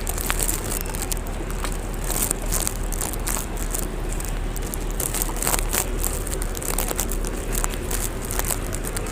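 Large flock of pigeons: a steady crackling rustle with scattered sharp clicks.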